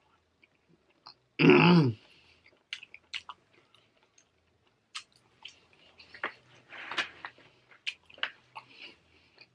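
A person chewing a bite of cheese-filled garlic knot close to the microphone, with scattered wet mouth clicks and smacks. About one and a half seconds in, a brief hummed vocal sound that falls in pitch is the loudest thing.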